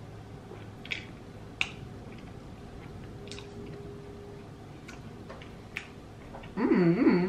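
Quiet chewing of a mouthful of noodles with a few sharp clicks. Near the end, a loud wavering hummed "mmm" in a woman's voice.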